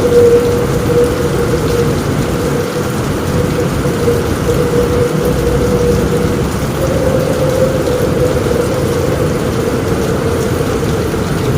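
Steady heavy rain on a roof, with low rumbling thunder underneath. A steady tone that wavers slightly in pitch runs through it.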